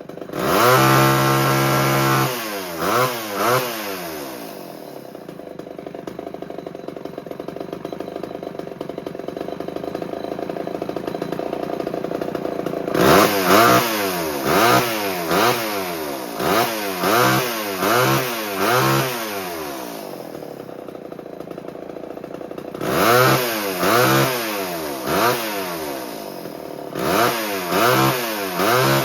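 1978 Homelite XL12 two-stroke chainsaw running, freshly started after years of sitting. It runs high for about two seconds, drops to idle, then is blipped up and down in repeated quick revs, about one a second, with idle stretches between.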